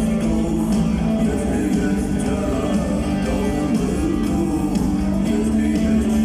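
Rock band playing live with guitars, bass and drums.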